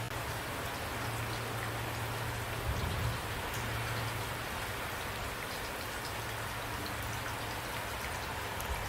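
Steady rain falling, an even hiss with scattered drop ticks, and a brief low thud about three seconds in and again near the end.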